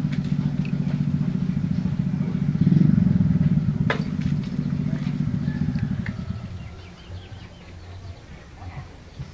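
A small engine running steadily nearby. Its note rises briefly about three seconds in, then dies away after about six seconds.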